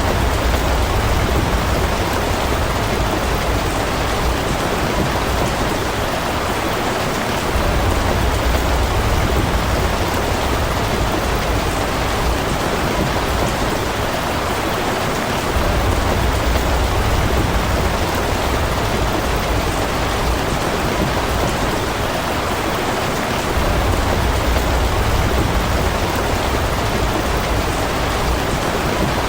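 Steady rain falling, an even hiss of drops throughout, with a low rumble that swells and fades about every eight seconds.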